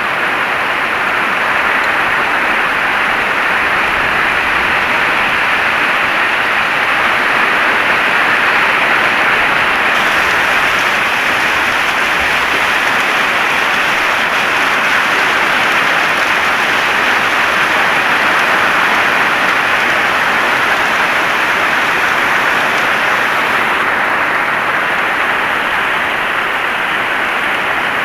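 Heavy rain falling steadily, a dense even hiss of rain on a surface.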